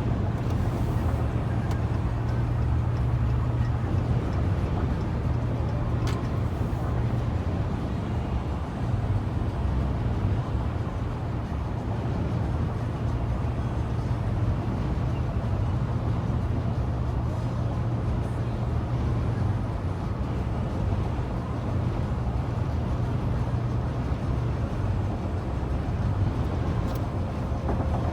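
Steady low rumble of a car on the road, engine and tyre noise heard from inside the moving car.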